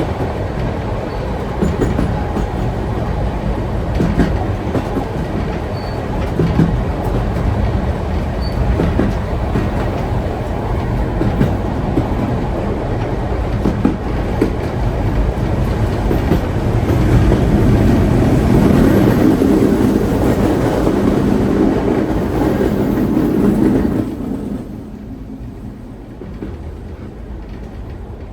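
Heritage steam train carriage rolling along the track: a steady rumble with scattered clicks from the wheels on the rails. It grows louder partway through, then drops suddenly to a much quieter, duller level near the end.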